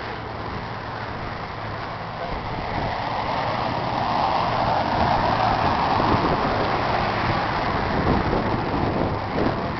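Ford 6600 tractor's three-cylinder diesel engine running, its sound growing louder and rougher about two and a half seconds in.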